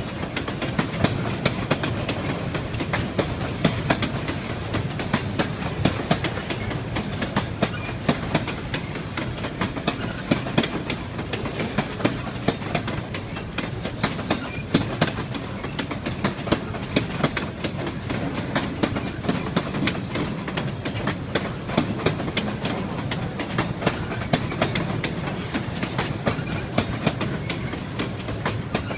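Railway train rolling along the track, its wheels clicking repeatedly over rail joints above a steady rumble.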